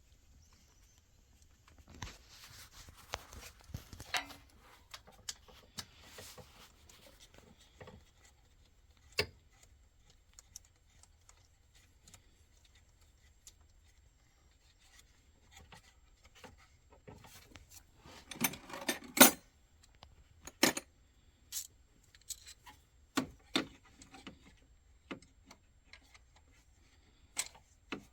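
Metal hand tools and bolts clinking, knocking and scraping on car parts during repair work under the hood: scattered clicks and clatter, with bursts of rubbing a couple of seconds in and again near the middle, the loudest knock about 19 seconds in.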